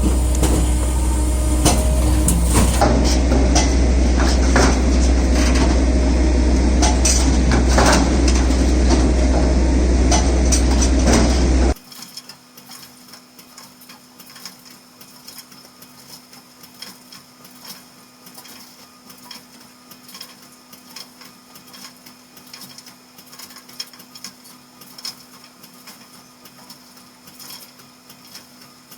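Electric firewood processor running, a steady motor hum with repeated knocks and cracks of wood being worked. About twelve seconds in the sound cuts off suddenly to a much quieter steady hum with faint ticks.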